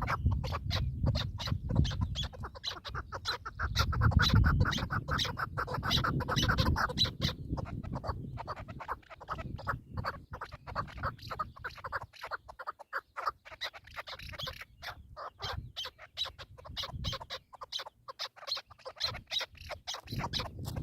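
Partridges calling, a run of rapid clucking notes. A low rumble on the microphone comes in near the start and again about four to seven seconds in.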